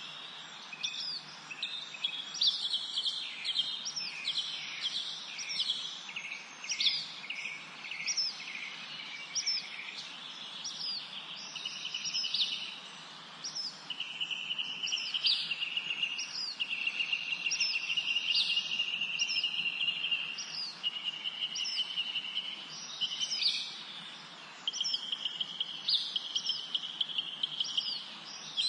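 Several birds singing in woodland: short high chirps that sweep downward, repeating about once a second, and from about halfway in, long rapid trills lasting a few seconds each.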